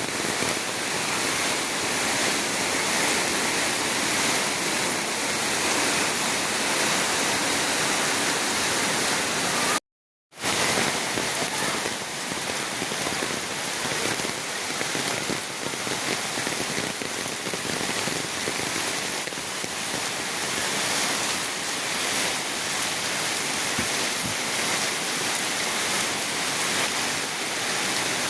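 Rain falling steadily in a storm, with a brief dead gap about ten seconds in.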